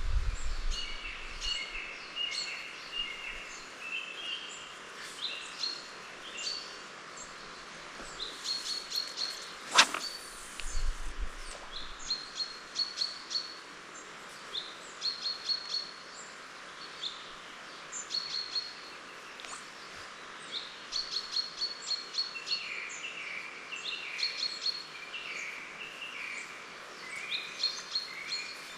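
Songbirds singing, several short repeated phrases overlapping, over a steady background hiss; one sharp click about ten seconds in.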